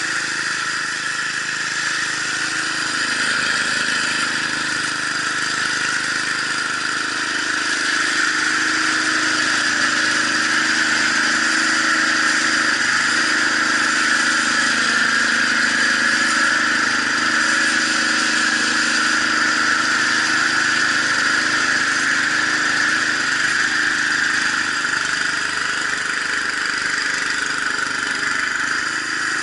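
Gasoline snowblower engine running steadily, with a strong, even high-pitched whir over the engine note.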